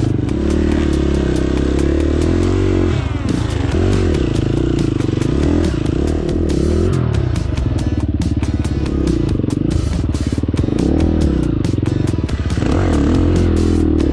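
KTM 350 four-stroke single-cylinder dirt bike engine being ridden, its revs rising and falling repeatedly with throttle and gear changes. Background music with a steady beat plays over it.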